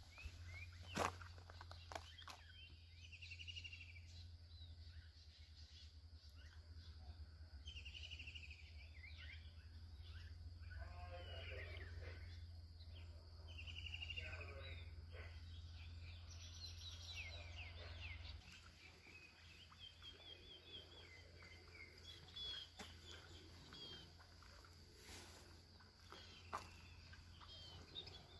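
Faint outdoor ambience: repeated short bird calls over a steady high insect whine, with a few footsteps near the start. A low hum runs underneath and stops about two-thirds of the way through.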